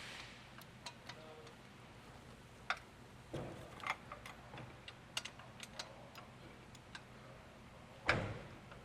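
Fine-tooth ratchet clicking in short, irregular runs as a differential fill plug is run in and tightened, with a few duller knocks of the tool against the car; the loudest knock comes near the end.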